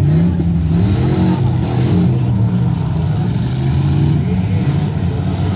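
Several full-size demolition derby cars' engines running and revving at once, their pitch rising and falling as the cars push and manoeuvre.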